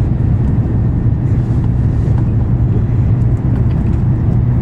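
Steady low rumble and hum of an N700-series Shinkansen running at speed, heard inside the passenger cabin.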